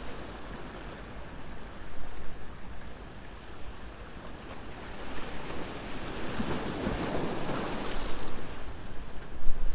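Ocean waves breaking and washing up the shore, one wave surging louder about two-thirds of the way through, over a low wind rumble.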